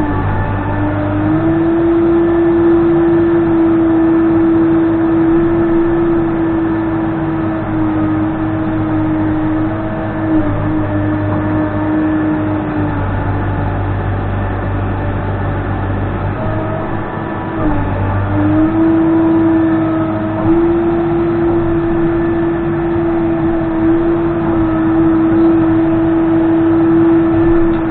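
Case 580N backhoe loader's diesel engine running at high revs under hydraulic load, with a steady whine that drops briefly a few times as the load eases and then climbs back.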